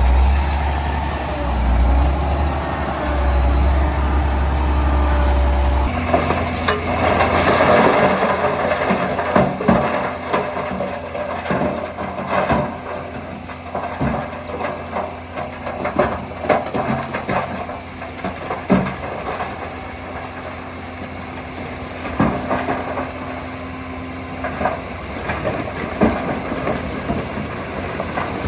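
Diesel engine of a crawler bulldozer working, with frequent sharp clanks and knocks from its steel tracks and the earth it moves. A deep steady rumble changes abruptly about six seconds in to a busier clatter.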